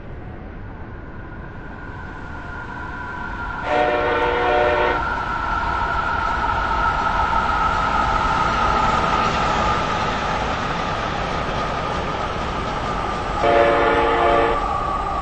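Train running past with its horn sounded twice, each blast about a second long, over steady rail rumble and a high whine that slowly falls in pitch.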